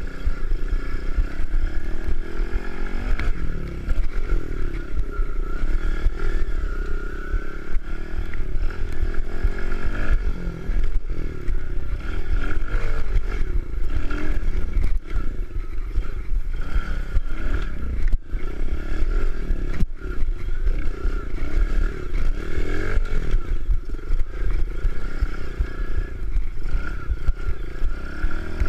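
Kawasaki KLX110 pit bike's small single-cylinder four-stroke engine being ridden, its pitch repeatedly rising and falling as the throttle opens and closes, over a constant heavy low rumble.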